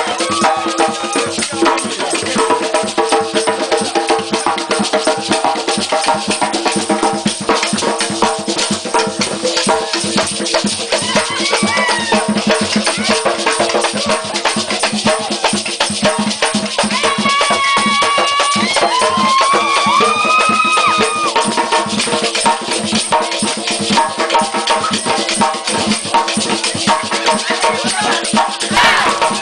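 Live traditional Creole music: hand drums and shakers playing a fast, steady rhythm, with voices joining in now and then.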